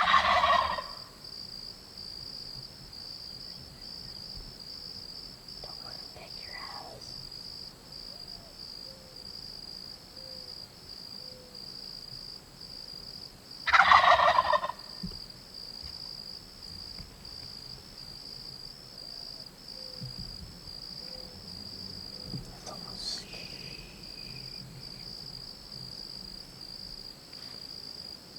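Wild turkey gobbling: two loud gobbles about 14 seconds apart, one at the very start and one midway, with fainter calls in between. A steady, high-pitched pulsing tone runs underneath.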